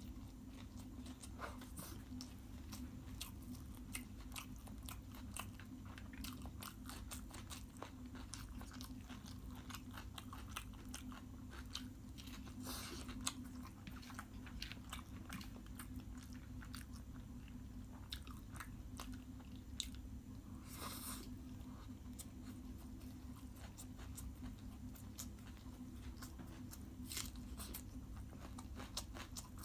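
Close-miked chewing and mouth sounds of a person eating chicken biryani by hand: many small wet clicks and smacks, with a few louder bites. A steady low hum runs underneath.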